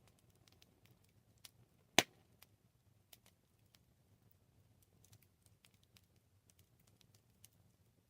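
Wood fire crackling: scattered small pops and snaps over a faint low hiss, with one loud sharp pop about two seconds in.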